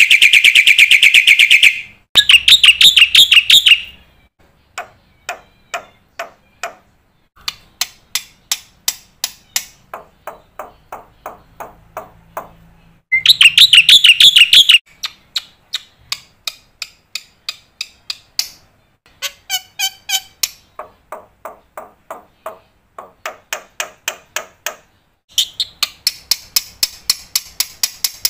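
Black-winged myna (jalak putih) singing a varied song. It goes in loud, rapid, buzzy trills of about two seconds at the start, about halfway and near the end, with runs of short sharp notes, two to three a second, in between.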